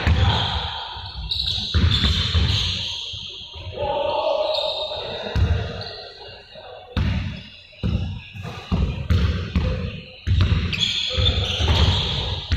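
Basketballs bouncing on a hard floor, a run of dull thumps at uneven intervals.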